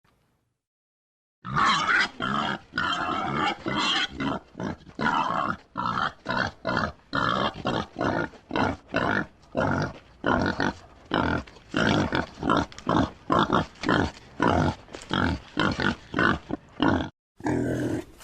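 A pig grunting over and over in quick short grunts, about two to three a second, starting after a second and a half of silence. The grunts break off briefly near the end and resume.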